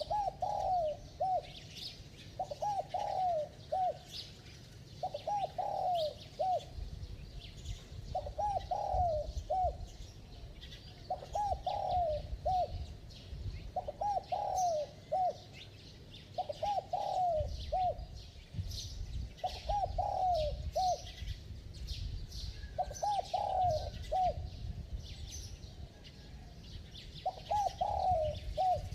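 Spotted dove cooing: the same short phrase of three or four coos repeated about every two to three seconds. Small birds chirp faintly above it, over a low rumble.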